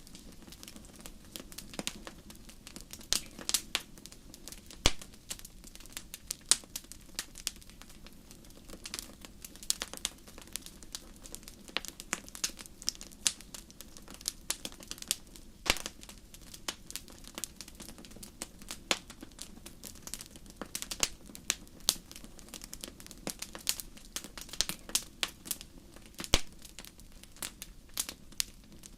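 Wood fire burning in a fireplace, crackling with frequent irregular pops and snaps over a faint low hiss. A few pops stand out louder, one about five seconds in and one near the end.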